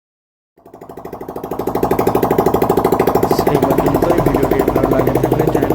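Bajaj Discover 125's single-cylinder four-stroke engine running with an even, rapid beat after its block kit has been fitted. It comes in after a moment of silence, builds over about a second and a half, then runs steadily.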